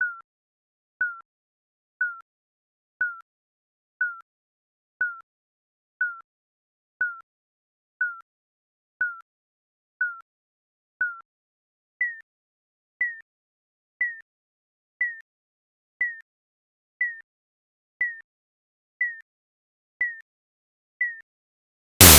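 Digital countdown timer beeps, one short beep every second. For the final ten seconds the beeps jump higher in pitch, and right at the end an explosion sound effect bursts in loudly.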